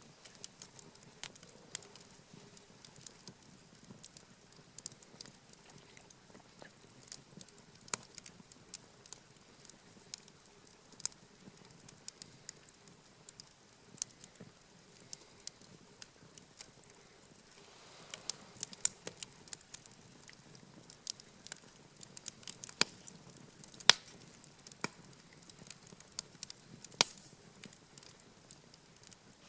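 Wood campfire crackling, with sharp irregular pops and snaps that grow busier and louder partway through, including a few loud pops near the end.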